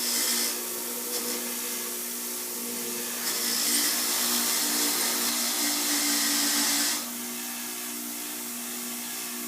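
Wire brush wheel running steadily while polishing a brass railroad coupler. From about three to seven seconds in, a louder scraping hiss as the brass is pressed against the spinning wire bristles.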